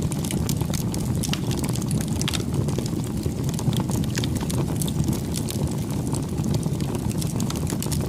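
Bonfire burning, the wood crackling and popping in quick irregular snaps over a steady low rumble.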